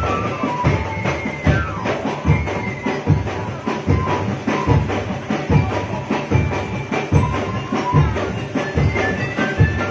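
Drum band music: a steady bass drum beat under a melody of short, high, bright notes.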